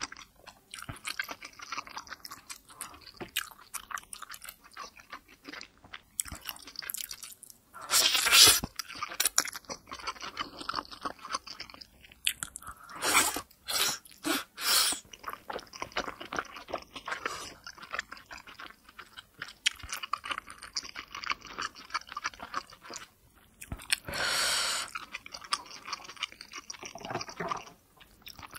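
Close-miked chewing of a large steamed pork momo: soft wet mouth clicks and smacks throughout. There are a few louder, longer noisy bursts, one about eight seconds in, three between thirteen and fifteen seconds, and one lasting about a second near the end.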